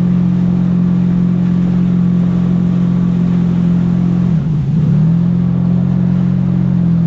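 Jet ski engine running steadily under throttle, its pitch dipping briefly and picking back up about four and a half seconds in.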